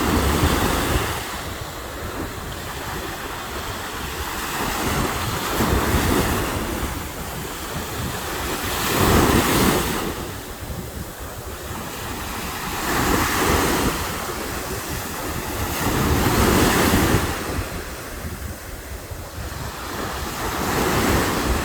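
Surf breaking on a beach, each wave swelling and washing back about every three to four seconds, with wind buffeting the microphone.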